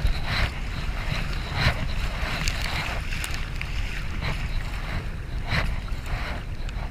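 Kayak paddle blades dipping and splashing in river water, a stroke every second or so, over a steady low rumble of wind on the microphone.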